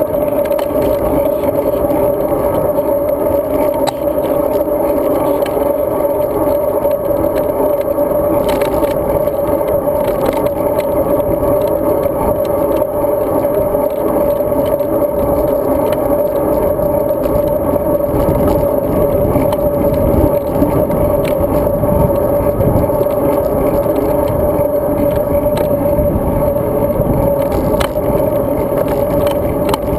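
Riding noise of a road bicycle picked up by a bike-mounted action camera: a steady hum with rough tyre and wind rumble underneath, and a few faint ticks and rattles.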